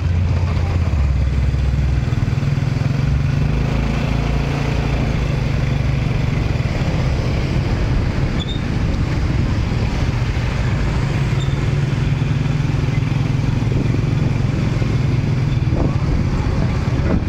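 A steady engine drone with street noise.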